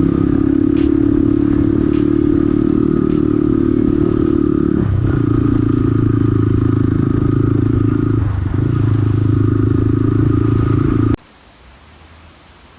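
Motorcycle engine running under way on a rough off-road track, with some clatter early on. Its note shifts about five seconds in and again about eight seconds in. About eleven seconds in the sound cuts off suddenly to a much fainter background.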